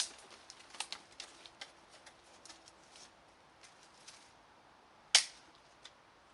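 Dry wood cracking and snapping: scattered sharp clicks, a quick cluster in the first second, and one loud crack about five seconds in.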